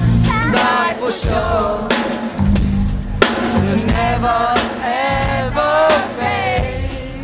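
A live band playing the intro of a song, with a drum kit keeping a steady beat of kick and snare under a melodic line, recorded from the audience at a concert.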